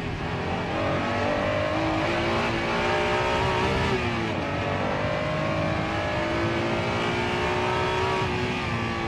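Honda NSX-R's 3.0-litre V6 heard from inside the cabin, revving up hard under acceleration. The pitch climbs, dips briefly about four seconds in, climbs again and eases a little near the end.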